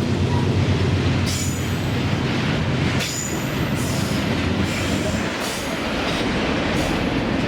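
Freight train rolling past close by: a continuous low rumble of the wagons on the rails, with short high-pitched squeals or hisses about every second or two.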